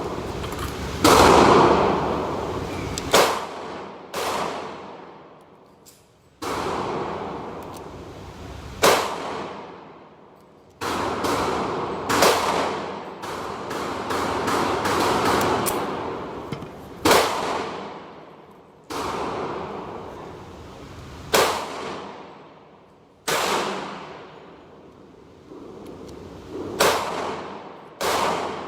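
Gunshots at a shooting range: about fifteen single shots fired at an irregular pace, one every one to three seconds, each with a long echoing decay.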